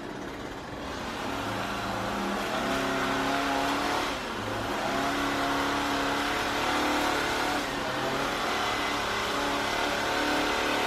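Petrol lawnmower engine running, its pitch rising and falling as it works.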